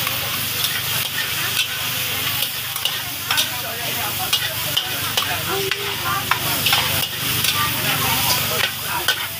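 Food sizzling as it fries in a pan, with a utensil stirring it and tapping against the pan in scattered clicks over a steady hiss.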